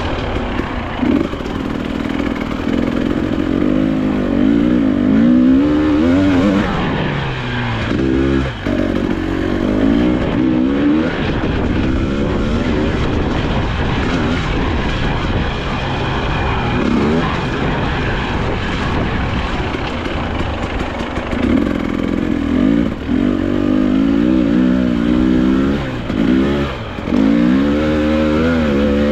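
2022 Husqvarna TE300i's two-stroke engine, revving up and down again and again as the throttle is opened and shut.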